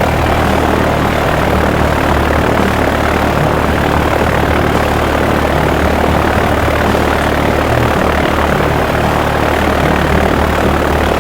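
Helicopter engine and rotor noise, a steady loud drone over a low hum, most likely a sound effect for the toy helicopter.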